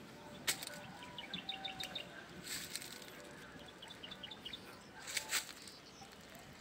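Small birds chirping in two quick runs of short high notes. A few brief, louder rustling noises come in between.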